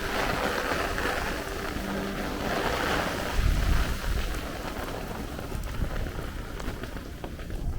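Heavy rain falling and gusty wind blowing across the microphone, with a strong gust rumbling low about three and a half seconds in.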